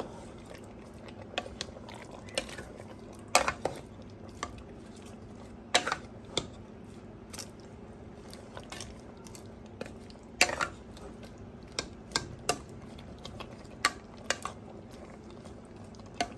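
Metal utensil clinking and knocking against a cooking pot of stew, about a dozen sharp clinks at irregular intervals over several seconds.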